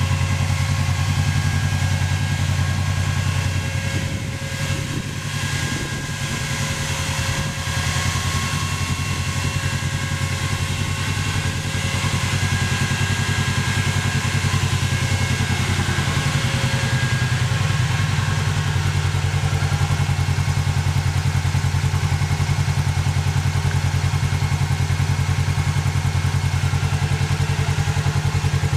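Polaris RZR XP 900 side-by-side's 875 cc parallel-twin engine running steadily at idle, dipping briefly about five seconds in.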